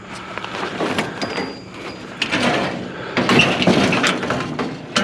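Clattering and scraping of scrap pieces being handled and shifted around, a dense run of knocks and rubbing noises.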